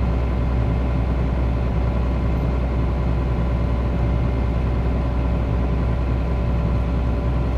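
Excavator engine running steadily at an even speed, a deep hum with a thin steady tone above it.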